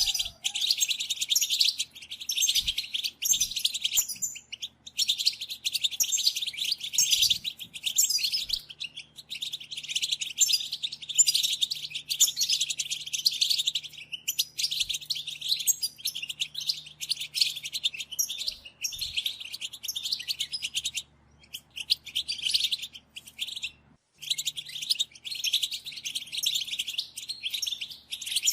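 European goldfinch singing a fast, continuous twittering chatter, broken by a few brief pauses.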